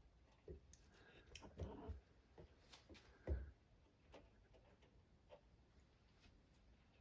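A few soft knocks and light clicks from cats moving about a washing machine, the loudest knock about three seconds in.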